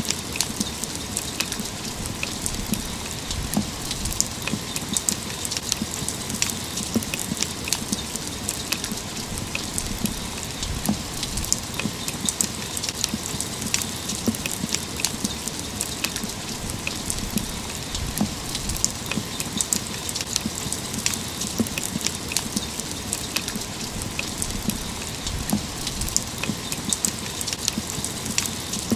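Steady rain: an even hiss of rainfall with a dense patter of individual drops ticking sharply close by.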